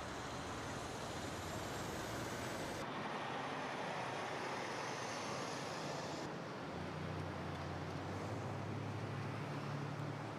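Steady outdoor background noise of vehicles, with abrupt changes about three and six seconds in where clips are cut together.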